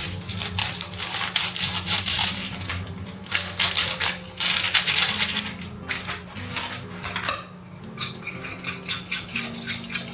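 Cutlery clinking and scraping against dishes in quick, irregular strokes, over soft background music.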